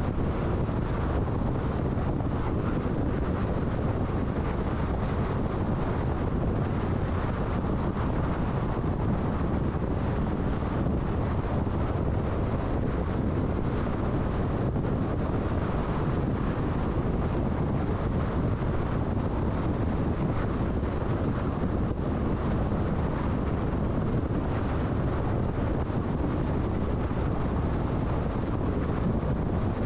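Steady road and wind noise of a car cruising at freeway speed: an even rush of tyres and wind that never changes.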